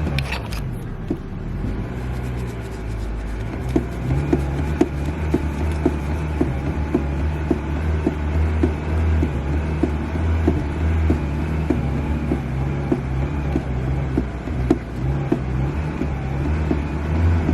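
Car engine settling to idle right after a rev, then running at a steady low idle with a faint regular tick about twice a second.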